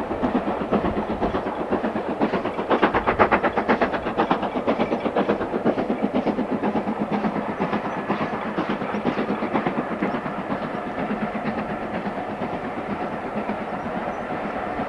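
Steam locomotive working a train past with rapid, even exhaust beats, loudest a few seconds in and then slowly fading as it draws away.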